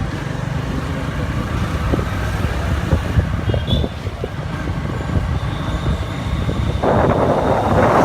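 Motorcycle engine running steadily while riding, with road and wind noise. Near the end a louder rushing noise comes in over it.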